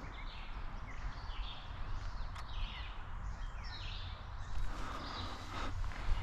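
Woodland birds singing and calling in spring, many short chirps and song phrases overlapping, over a steady low rumble. A single sharp click about two and a half seconds in.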